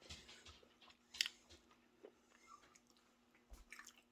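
Faint sounds of a person biting into and chewing a barbecue chicken wing, with a sharper click about a second in.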